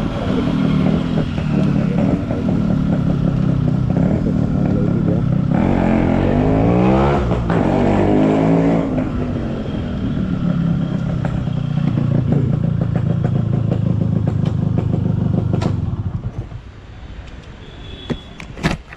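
Yamaha RX two-stroke single-cylinder motorcycle engine running under way, with a rising rev about six seconds in, then falling away sharply about sixteen seconds in. A few sharp clicks follow near the end.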